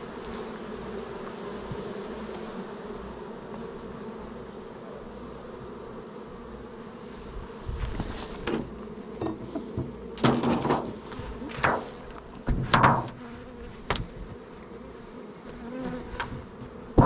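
Honeybees buzzing around an opened hive in a steady hum. From about halfway through, irregular knocks and bumps of wooden hive parts being handled.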